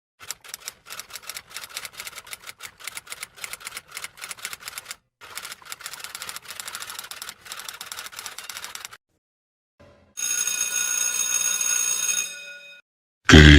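Rapid, irregular mechanical key clicks, like typing, for about nine seconds with a brief pause midway. After a short silence a bell rings steadily for about two and a half seconds, and a loud burst of sound comes right at the end.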